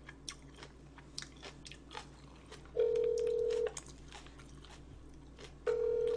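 Telephone ringback tone heard through a phone on speaker: a steady one-second beep, twice, the second about three seconds after the first, while the call rings before being answered.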